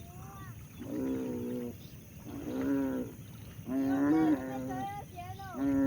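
A child's voice making four long, held, wordless calls in a row, like an animal imitation, with fainter sliding, wavering voice sounds between them.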